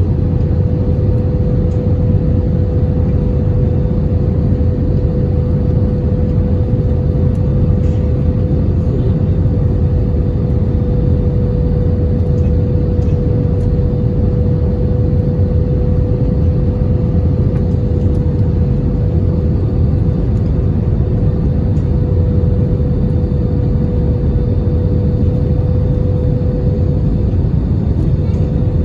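Steady cabin noise inside an Airbus A320 airliner: a constant low rumble of airflow and engines with a steady mid-pitched hum laid over it, unchanging throughout.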